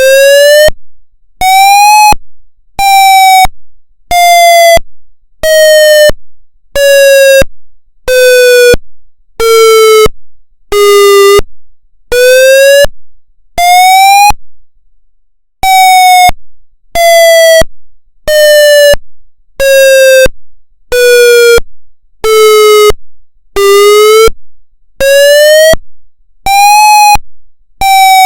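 Federal MCP siren sounding its pulse wail signal: a loud, buzzy siren tone chopped into short blasts about once a second, the pitch of the blasts slowly rising and falling as in a wail. There is a short break about 15 seconds in.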